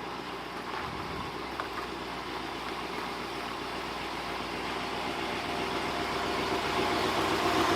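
The 352 V8 of a 1960 Ford Thunderbird idling steadily, growing gradually louder.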